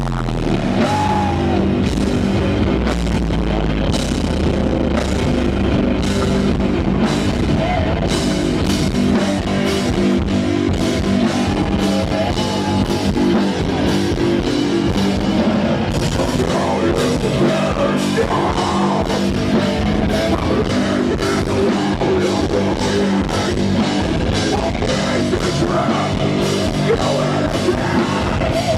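Live rock band playing a loud, driving song: electric guitars over a steadily hit drum kit, with some singing.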